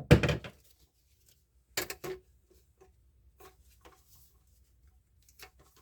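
Knocks and clatter of drain-pipe parts and tools being handled: one loud knock right at the start, another a little under two seconds in, then a few light taps.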